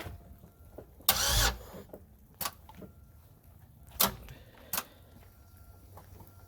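A failed attempt to start the heat-soaked Buick Century engine. One short, loud burst of noise comes about a second in, then a few sharp clicks, and the engine does not catch.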